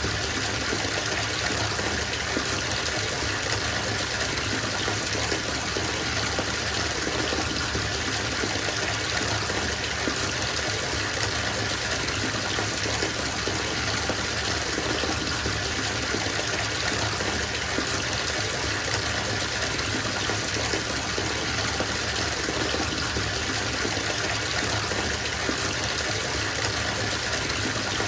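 Bathtub filling from the tap: a steady gush of running water splashing into the tub, even and unbroken.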